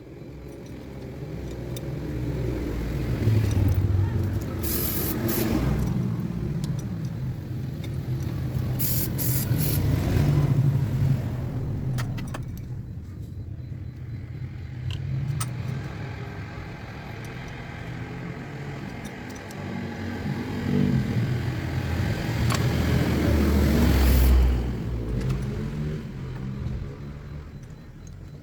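A motor vehicle engine rumbling, its sound swelling and easing several times, with a sudden drop about three-quarters of the way through. A few sharp clicks come in the first third.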